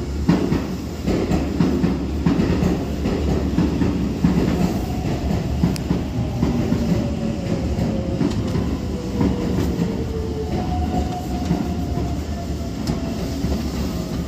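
A Shin Keisei 8800-series electric train rolls slowly past a platform: a steady low rumble with wheels clicking over rail joints. A thin motor tone slowly falls in pitch through the middle.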